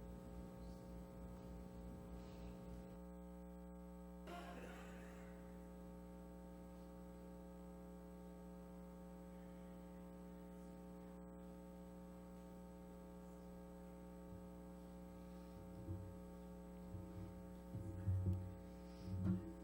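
Steady electrical mains hum, low and constant, with a few dull low bumps near the end.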